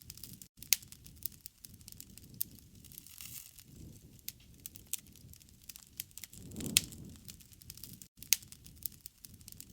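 Wood fire crackling with a steady scatter of sharp pops, a few of them much louder, over a low rushing sound that swells and fades.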